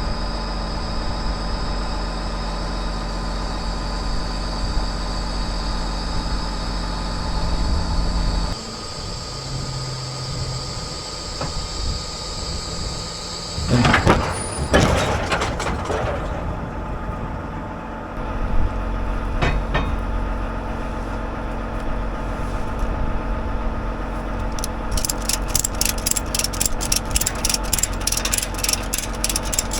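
An engine runs steadily, with loud metallic clanks midway. Near the end a ratchet strap is cranked tight, clicking about four times a second.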